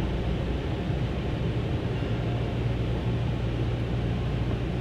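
Steady low rumble with a constant hum, as heard from inside a van's cabin while it rolls through an automatic car wash.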